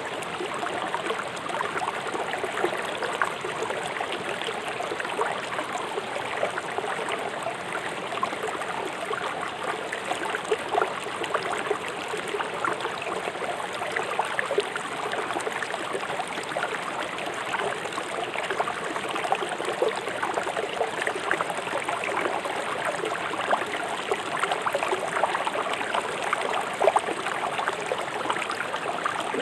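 A fast-flowing river rushing and gurgling over stones, a steady water noise with small splashes throughout.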